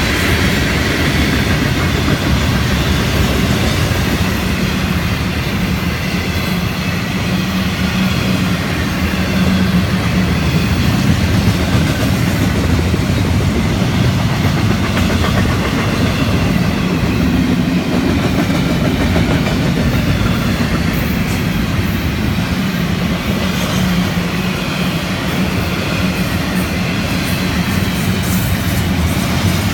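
Long freight train of hopper cars and double-stack container cars rolling past: steel wheels clattering over the rails over a steady, even rumble.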